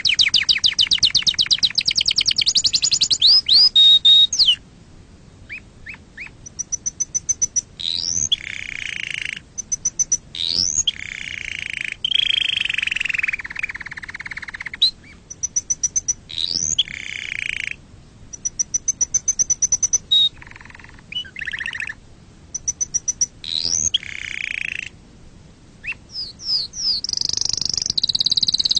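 Canary singing: a fast, high trill of rapidly repeated notes, then separate phrases of rising whistles, high repeated notes and lower rolling trills with short pauses between them, and another loud trill near the end.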